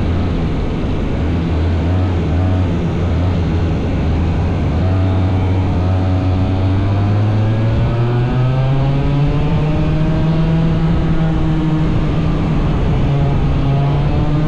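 Small 100cc racing engine running hard and steady. Its pitch steps up about seven seconds in, then rises and falls as the revs change.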